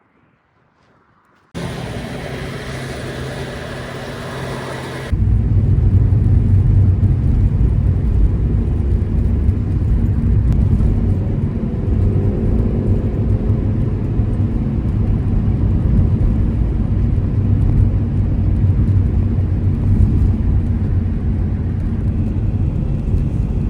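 Car engine and road noise inside a moving old Ford Focus, cutting in suddenly about a second and a half in. About five seconds in it steps up to a louder, deeper, steady rumble.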